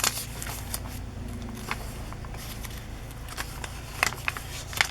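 Pages of a thick handmade junk journal being turned and handled: soft paper rustling with light clicks and ticks, busiest near the end.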